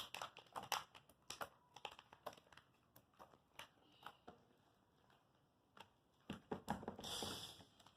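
Faint, irregular sticky clicks and small pops of slime being stretched and squeezed by hand, with a short pause about five seconds in and a few louder clicks near the end.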